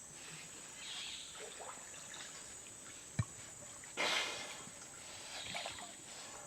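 Water splashing and dripping in small bursts, with a sharp knock about three seconds in and a louder splash a second later. A steady high insect drone runs underneath.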